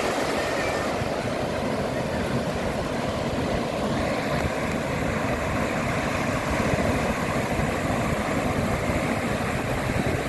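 Wind buffeting the microphone over breaking surf whipped up by a tropical storm, a steady loud noise throughout.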